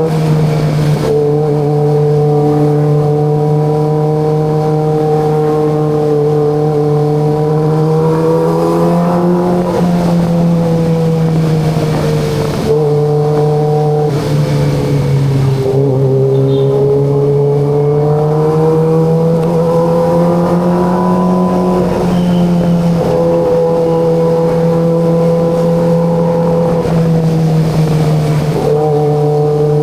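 Kawasaki ZX25RR's 250 cc inline-four engine running steadily while riding at moderate revs. Its pitch rises and falls gently a few times with the throttle.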